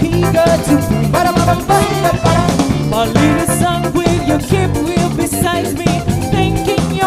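Soul band playing: drum kit keeping a steady beat under bass, guitar and a wavering lead line.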